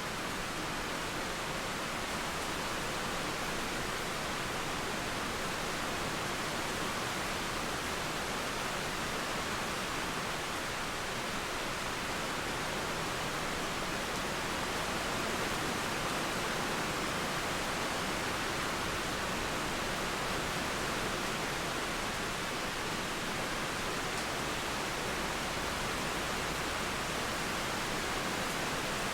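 Steady rain falling, a continuous even hiss that holds at the same level throughout.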